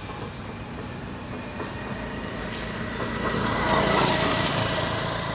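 A small-engined vehicle passing, growing louder to a peak about four seconds in and then easing off.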